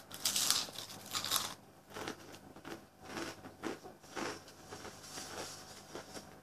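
Crunchy breadstick being bitten and chewed close to the microphone: a dense crunch of biting in the first second and a half, then irregular crunching chews.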